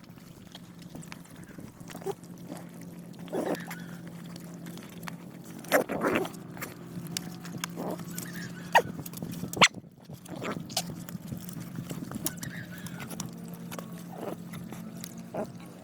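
Dogs and puppies eating: irregular clicking and smacking of chewing and lapping, with a few louder knocks, over a steady low hum.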